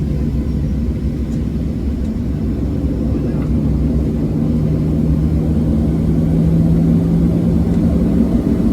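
Boeing 737-700 cabin noise before takeoff: a steady low rumble with a low hum that grows steadier and slightly louder about halfway through.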